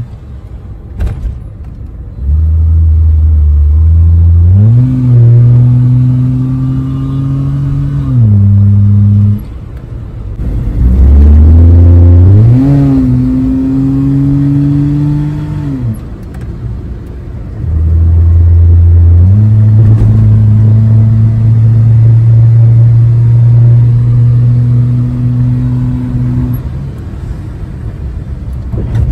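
Daihatsu Mira 660 cc three-cylinder engine heard from inside the car's cabin while driving. Three times the engine note climbs steeply as the car accelerates, holds for a few seconds, then drops back as the driver eases off.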